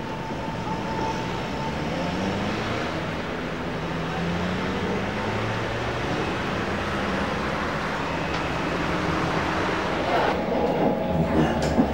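Singapore MRT train running along an elevated viaduct: a steady rumble and hiss of wheels on rail, with an electric motor whine that glides up and down in pitch. About ten seconds in, the sound cuts to a different scene with sharp knocks and a steady hum.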